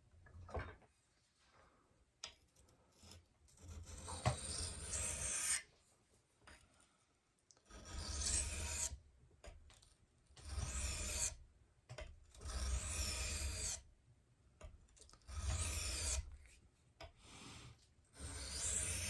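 Steel knife blade stroked along a wet, finer-grit Japanese water stone: about six slow, steady scraping passes, each lasting around a second, with pauses of a second or two between them.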